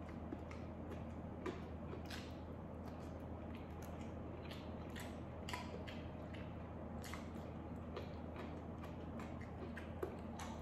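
A person chewing a mouthful of rice and side dishes close to the microphone: irregular wet smacks and small mouth clicks, over a steady low hum.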